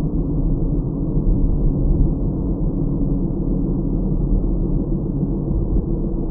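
Car driving at steady speed, heard from inside the cabin by a dash cam: an even, muffled low rumble of road and engine noise.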